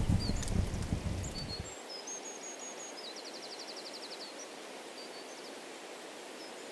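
Songbirds singing over a steady hiss of breeze: scattered chirps, a run of five quick notes about two seconds in, then a rapid trill lasting about a second. A low rumble in the first couple of seconds cuts off suddenly.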